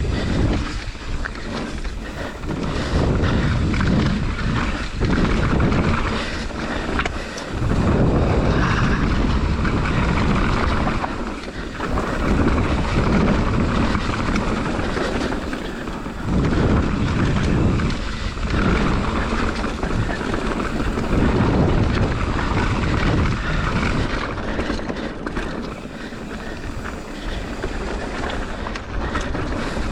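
Mountain bike descending a dirt trail at speed: wind rushing over the microphone with tyres rumbling on the ground and the bike knocking and rattling over bumps, swelling and easing with the terrain.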